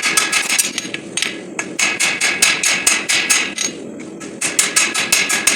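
Hand hammer striking hot steel bar on an anvil while forging a knife blade: quick runs of ringing blows, about five or six a second, with two short pauses between runs.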